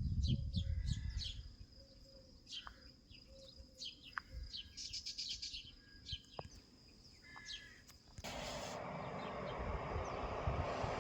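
Small songbirds chirping and twittering in short, quick calls, with a low rumble at the start. About eight seconds in, a steady rushing noise with a low hum cuts in abruptly under the birds.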